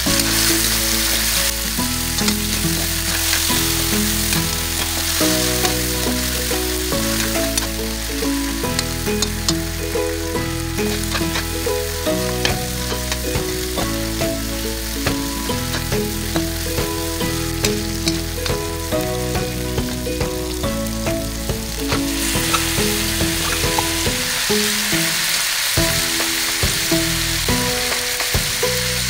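Sliced onion and tomato sizzling in oil in a steel wok, stirred with a metal spatula that now and then scrapes and ticks against the pan. The sizzle grows louder about two-thirds of the way in.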